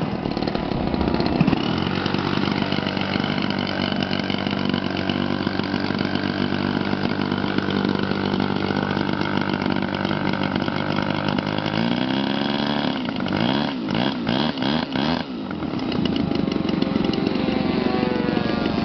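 Small electric motor and propeller of a remote-control foam toy aeroplane whining at a steady pitch. About twelve seconds in the pitch rises, then wavers up and down for a few seconds before settling into a rougher, noisier running sound.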